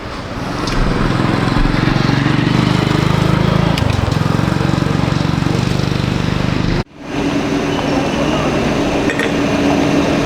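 A motor engine running steadily close by, growing louder about a second in. The sound cuts out abruptly for an instant about seven seconds in, then carries on.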